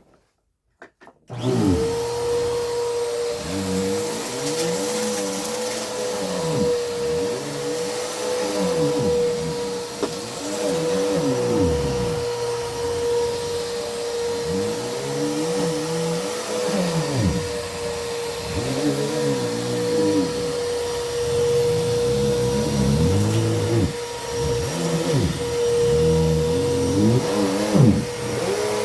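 Vacuum cleaner switched on about a second in, then running loudly with a steady whine, its sound rising and falling every couple of seconds as it is pushed back and forth over the floor.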